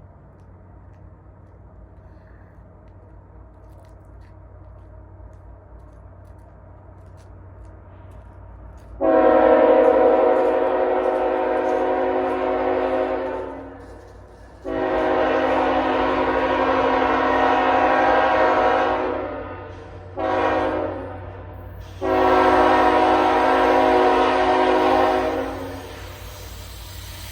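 Diesel locomotive air horn sounding the grade-crossing signal, long, long, short, long, each blast a chord of several notes. Under it runs the low rumble of the approaching train.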